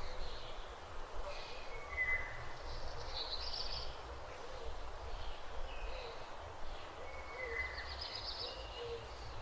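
Birds singing and calling: short high chirps and trills at irregular intervals, with short, softer low notes repeating about once a second, over a steady low rumble.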